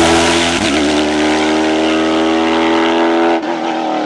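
Hill climb race car engine at high revs accelerating hard, with a quick break in the note about half a second in like a gear change. The pitch then climbs steadily. About three and a half seconds in, the note drops suddenly and the sound turns quieter and duller.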